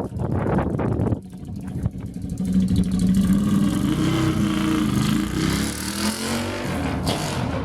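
Ducati 848's L-twin engine running through a full Termignoni exhaust with the mufflers and dB killers removed, loud and open. The throttle shuts about a second in, then the bike accelerates again with the engine note rising and falling.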